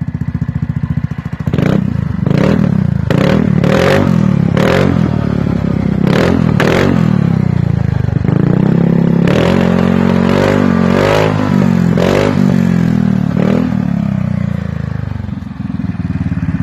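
Yamaha X-MAX scooter's single-cylinder four-stroke engine running through a Protecht stainless-steel aftermarket exhaust. It idles between about a dozen short throttle blips, each revving up quickly and then falling back.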